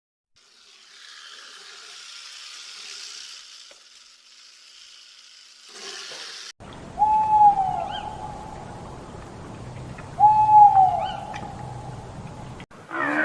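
An animal giving two long calls about three seconds apart, each starting with a short bend in pitch and then held steady, over a noisy background. Before the calls there is a stretch of hiss.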